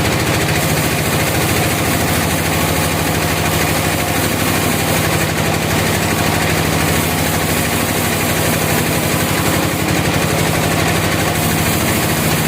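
Engine running steadily at a constant speed, with a fast, even pulse over a low hum.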